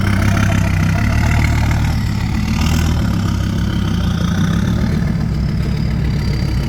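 Heavy diesel dump truck engines running steadily at a loading site, with a low engine note throughout.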